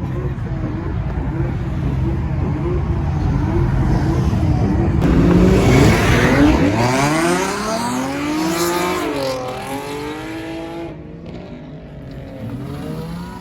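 A performance car's engine revving hard as the car launches and accelerates away, its note climbing in pitch, dropping briefly at a gear change and climbing again before fading. A deep idling rumble comes before the launch.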